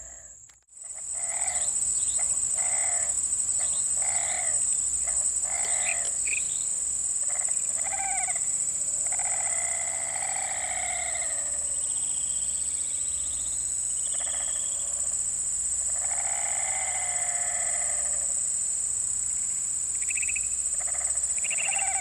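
A constant high-pitched insect drone, with animal calls over it: short calls repeating about once a second at first, then a few longer drawn-out calls.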